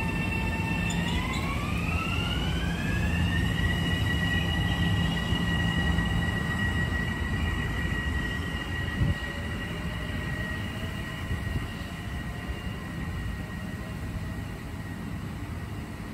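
Metro-North electric train pulling away: a steady motor whine that climbs in pitch for about two seconds, then holds, over a low rumble of wheels and running gear that slowly fades. A single knock comes about nine seconds in.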